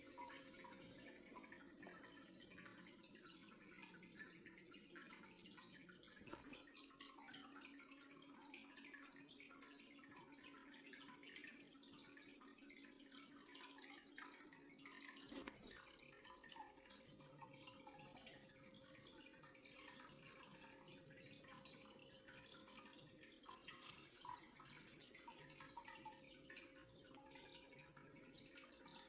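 Near silence: faint room tone with a steady low hum and scattered faint ticks. A second, lower hum joins for several seconds in the middle.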